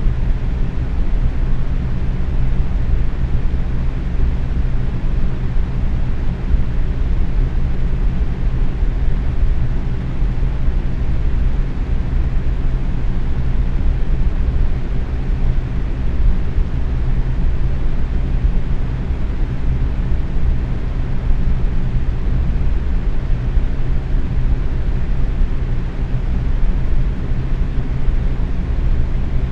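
Box fan running at medium speed: a steady rush of moving air with a low hum underneath.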